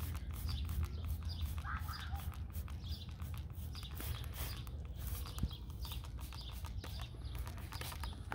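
Birds chirping in the background, short repeated calls, over a steady low rumble and scattered faint clicks.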